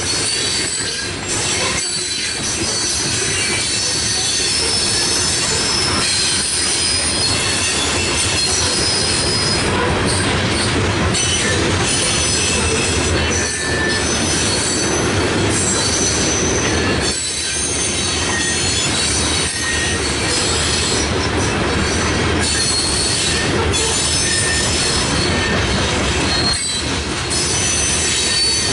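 Loaded CSX coal hopper cars rolling past close by: a steady rumble and clatter of steel wheels on rail, with high-pitched wheel squeals coming and going over it.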